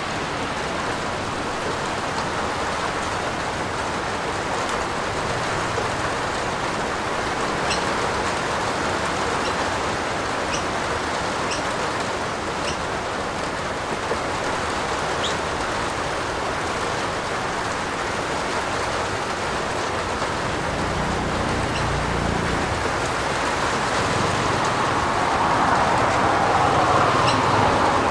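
Steady rain falling on a roof, with scattered drip ticks. A low rumble comes up about two-thirds of the way through, and the rain grows louder near the end.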